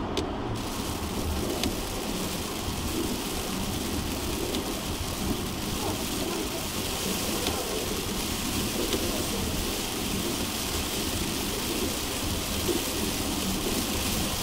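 Heavy rain falling as a steady, even hiss over a continuous low rumble; the hiss comes in abruptly about half a second in.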